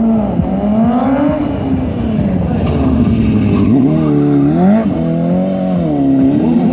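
BMW S1000RR sport bike's inline-four engine revving hard during a stunt ride, its pitch rising and falling repeatedly as the throttle is worked.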